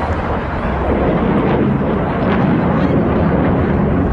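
Aircraft flying past at an air show: a loud rushing engine noise that swells about a second in and stays loud.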